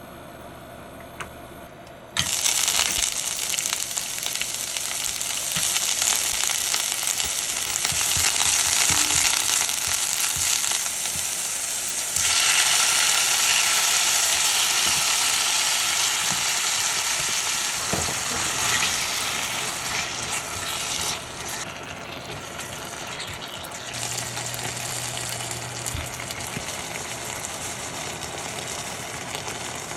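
Food sizzling and frying in a hot pan, starting suddenly about two seconds in and getting louder about twelve seconds in, with light knocks of a utensil stirring.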